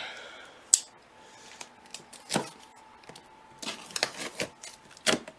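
Cardboard box of a new ceiling fan being opened and its packing handled: irregular sharp cracks and rustles of cardboard and wrapping, the sharpest crack shortly after the start.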